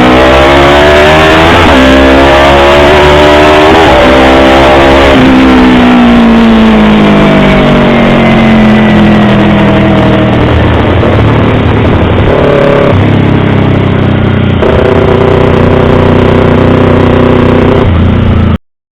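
Yamaha YZF-R25's 250 cc parallel-twin engine accelerating hard, its pitch climbing and dropping back twice as it shifts up, then winding down slowly as it slows and settling to a steady low running note. The sound cuts off suddenly near the end.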